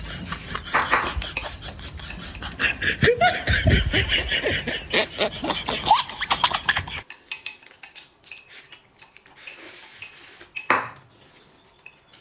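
Tableware clattering and scraping, with dense clicks of utensils against dishes during a meal. The sound drops away abruptly about seven seconds in, leaving a few scattered clicks and one louder knock.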